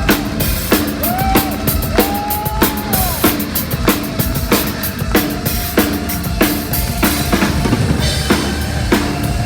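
A heavy metal band playing live at full volume, recorded from the crowd. A steady, heavy drum beat of kick and snare drives it, with a held note that bends about two seconds in.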